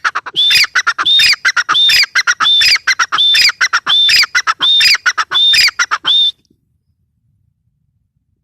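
Grey francolin (teetar) calling: a loud, shrill phrase repeated about every 0.7 seconds, some nine times, that stops about six seconds in.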